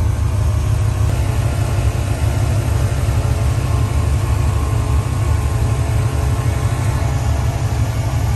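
Truck's V8 engine idling steadily, a constant low rumble.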